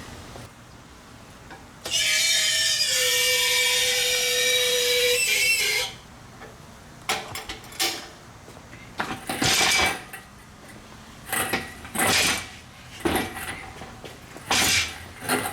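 A power tool running for about four seconds, its pitch dropping and then holding steady, followed by several short bursts of tool or workshop noise.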